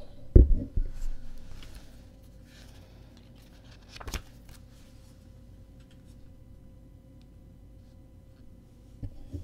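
Paper photo prints being handled and shuffled, with soft rustling. A low thump comes about half a second in, and a single sharp click or knock about four seconds in.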